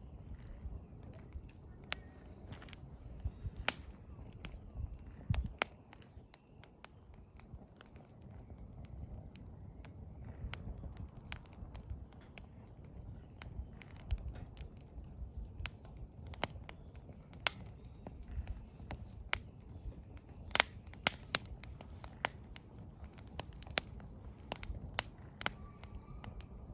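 Wood campfire crackling: irregular sharp pops and snaps of burning firewood over a low, steady background.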